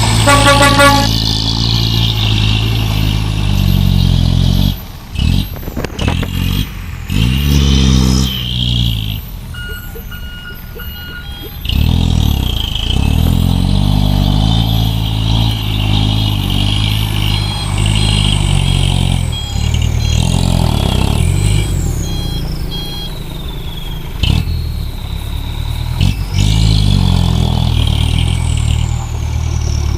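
Truck engine revving hard under load, its pitch rising and falling again and again as it labours through mud. A horn honks at the very start and stops about a second in.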